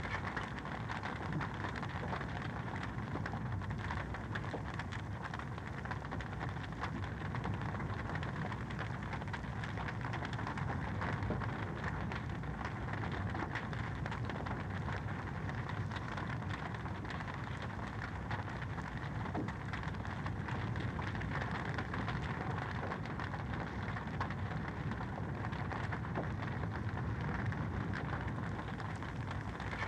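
Wood fire crackling in a fireplace: a dense, steady stream of small pops and crackles over a low, even rumble.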